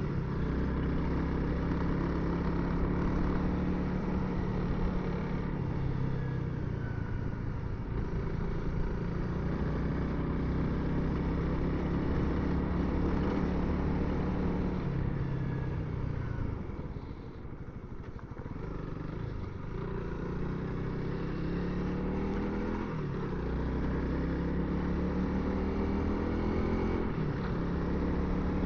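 Honda CRF300L's single-cylinder engine running under way, its pitch rising and falling with the throttle. About two-thirds through it drops off briefly, then picks up again. Heard through a Bluetooth helmet intercom microphone.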